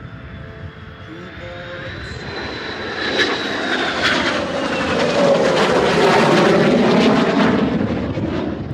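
F-22 Raptor's twin turbofan engines on a pass. The sound builds over several seconds, and a high whine falls in pitch as the jet goes by. Crackle comes at the loudest point, then the sound fades.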